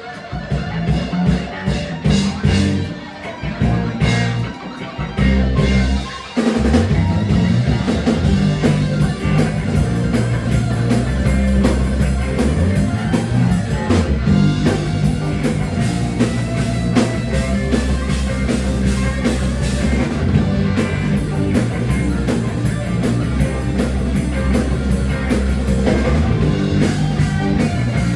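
Rock music on guitars and a drum kit, played in short stop-start phrases at first. About six seconds in, the full band comes in and plays on steadily.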